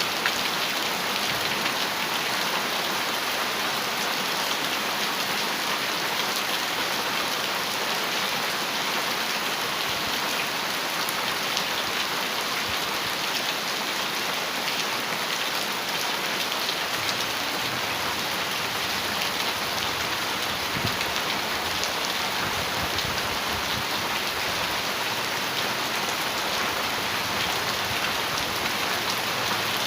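Heavy rain falling steadily on a metal roof: a dense, even patter of drops.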